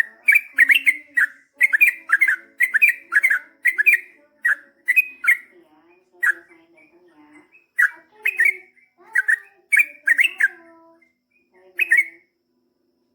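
Yellow-vented bulbul (trucukan) singing a long run of short, bright chirping notes in quick succession. The notes come densely for about the first five seconds, then more sparsely with short pauses.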